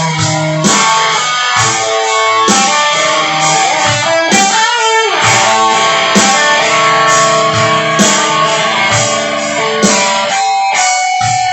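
Instrumental break of a rock song: guitars playing chords that change every second or two, with a note sliding up and back down about halfway through.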